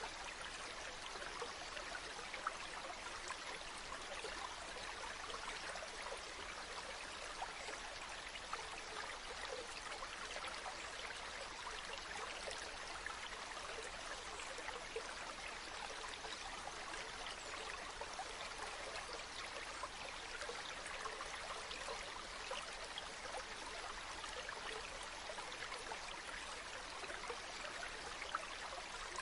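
Running water from a stream or waterfall: a steady rush with small splashes and trickles scattered through it.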